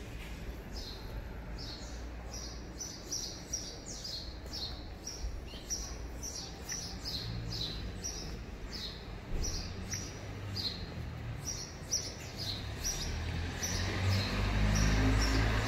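Small birds chirping over and over: short, high chirps that drop slightly in pitch, about two or three a second, over a low background rumble that swells near the end.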